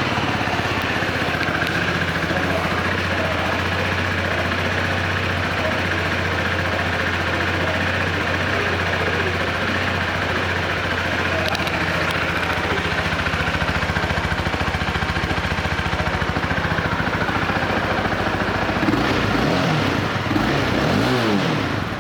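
2016 Honda CBR300R's single-cylinder engine idling steadily, then revved a few times near the end.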